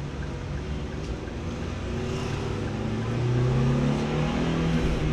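Car engine heard from inside the cabin, pulling at low speed: its pitch and loudness rise gently over a couple of seconds and then hold, over steady road noise.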